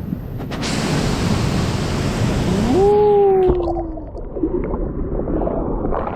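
Wind rushing over the microphone on the move. Near the middle a single tone rises, holds for about a second and then sinks a little. After it the rush becomes duller.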